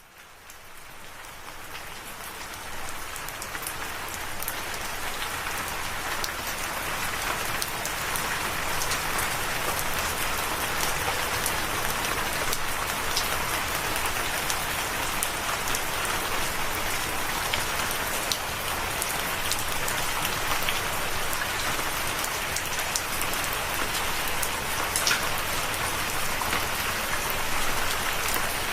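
Steady rain falling, with many separate drops ticking close by. It fades in from silence over the first several seconds, then holds steady.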